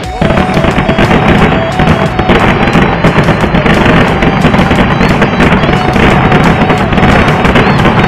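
Fireworks going off in a dense, unbroken barrage, rapid bangs and crackling running together. It starts suddenly just after the opening and stays loud throughout.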